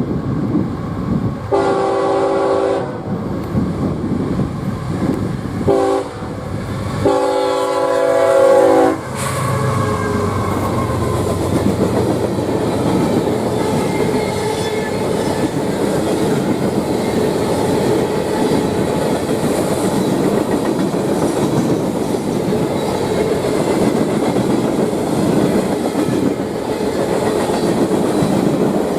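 Freight train's locomotive horn sounding three chord blasts, the last the longest and loudest. After that the train rolls by with a steady rumble and clatter of wheels on rail.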